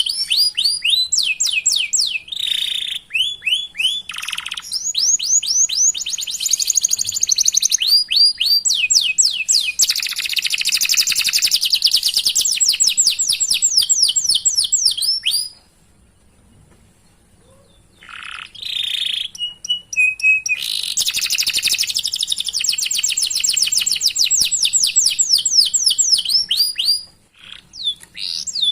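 Domestic canary singing a long song of rapid, repeated falling chirps ('cuit-cuit') and rolling trills. The song breaks off for about two and a half seconds midway, then starts again.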